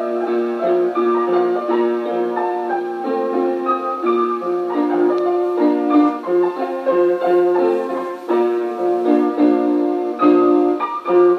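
Piano accordion playing a lively tune: held chords and a moving melody over a bass note on each beat. It comes from an old home tape recording that runs slightly fast, so the pitch is raised.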